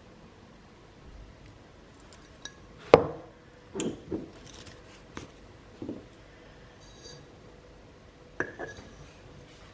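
Hard objects being handled and set down: a handful of separate knocks and clinks, the loudest about three seconds in.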